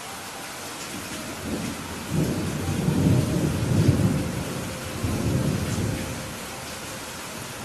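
Steady rain with a long roll of thunder that builds about two seconds in, is loudest near the middle and dies away a little after six seconds.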